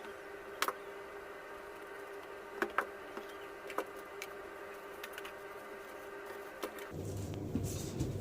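Scattered small clicks and taps from handling a smartphone and its packaging, over a faint steady hum.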